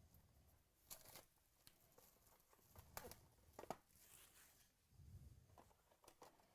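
Faint tearing and crinkling of trading-card box packaging being opened by hand, with a few light clicks of handling.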